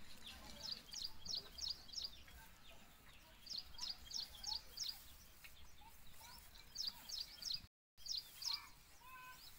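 A small bird chirping: runs of short, high, sharp notes, four to six at a time in quick succession, repeated several times over faint outdoor background noise. The sound drops out briefly near the end.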